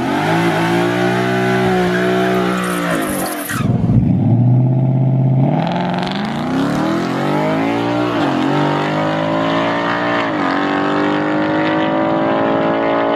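2020 Mustang GT's 5.0 Coyote V8 on a drag strip pass: held at steady revs with a hiss for about three seconds, then at full throttle climbing in pitch through the gears of its 10R80 10-speed automatic, the pitch dropping sharply at two upshifts.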